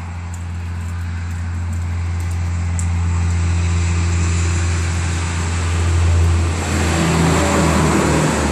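A road vehicle going by, its noise swelling over several seconds to a peak near the end before easing, over a steady low hum.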